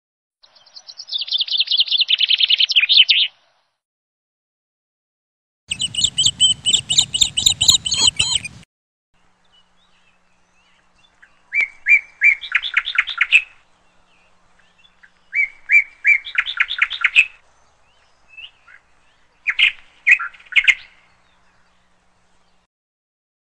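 A songbird singing in separate phrases: a fast high trill, then four shorter bursts of quick chirping notes a few seconds apart. The second phrase carries a low rumble underneath.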